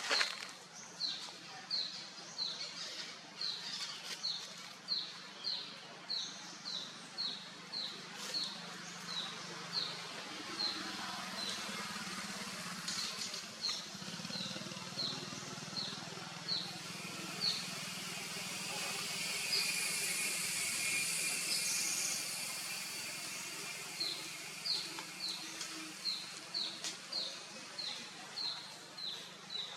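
A bird calling a short, high chirp over and over, about twice a second, against steady outdoor background noise. The calling stops for several seconds about halfway through while a hiss rises, then starts again.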